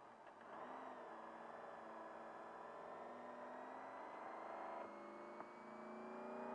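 Faint trophy-truck engine drone whose pitch rises slowly and steadily as the truck accelerates away. A single click sounds about five seconds in.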